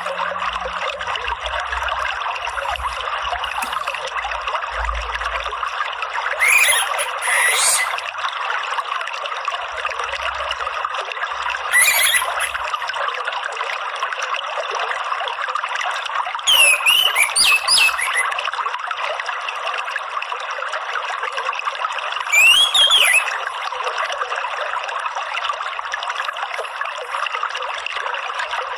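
Steady trickle of running water, with short bird calls of an orange-headed thrush breaking in four times, each a quick rising-and-falling phrase.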